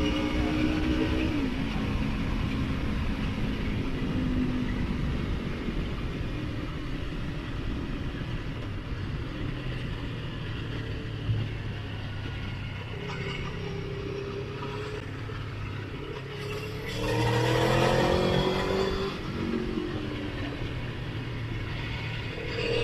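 Motorcycle engine heard while riding, under steady wind noise on the microphone: the engine note drops about a second and a half in, holds fairly steady, then rises loudly as the bike accelerates hard around three quarters of the way through before easing off.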